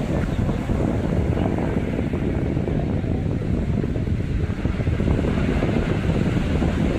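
Wind buffeting the microphone over the sound of sea waves, a steady low rumble with no pauses.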